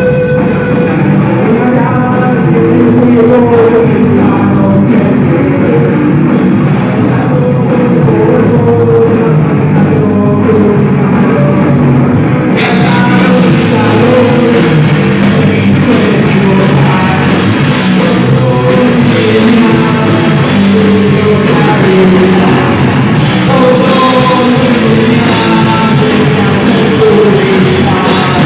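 Rock band playing a song with singing, electric guitar and drum kit. About twelve seconds in, the cymbals come in and the sound fills out.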